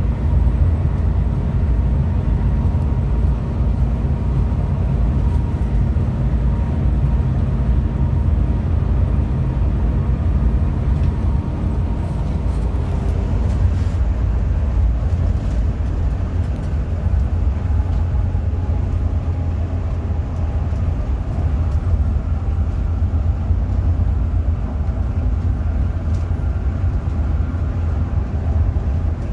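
Hino RM 280 bus under way: a steady low engine and road rumble, with a pitched engine drone that fades about twelve seconds in.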